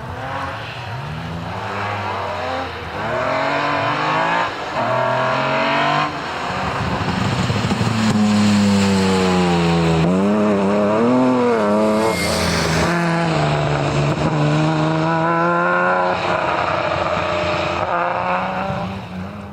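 Rally car engine accelerating hard through several gears, the revs climbing and dropping at each shift, then held high and swinging up and down for several seconds. There is a short sharp hiss about twelve seconds in, and the sound cuts off just before the end.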